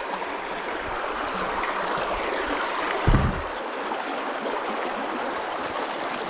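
Creek water running over stones, a steady rushing hiss, with a brief low thump about three seconds in.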